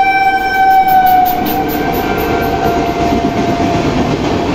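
Electric locomotive sounding one long horn blast as it runs through at speed; the horn's pitch drops about a second and a half in as the locomotive passes, and it fades into the steady rushing rumble of the passenger coaches going by.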